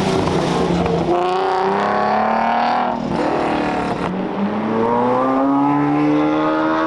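A car's engine revving hard as it accelerates away, its pitch climbing, dropping briefly about three seconds in at a gear change, then climbing again.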